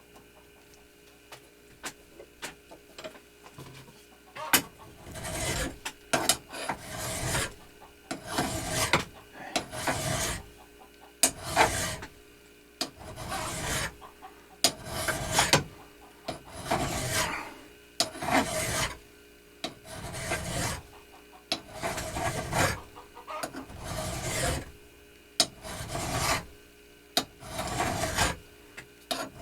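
Slow, rhythmic scraping strokes of a hand-worked abrasive tool, about one stroke a second, starting a few seconds in. Material is being taken off by hand.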